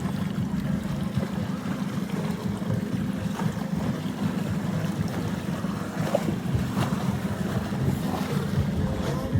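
Wind buffeting the microphone over water rushing along the hull of a C420 sailing dinghy under way, with a few short knocks near the end.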